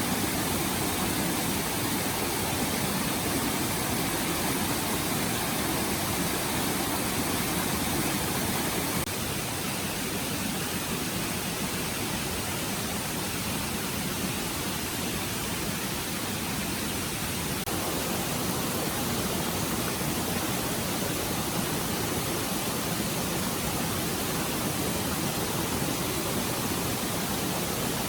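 Forest stream flowing with a steady, even rush of water, dropping slightly in level about nine seconds in.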